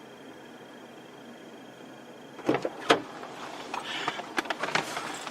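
A low hiss, then about two and a half seconds in two sharp knocks half a second apart, followed by a run of clicks and rattles.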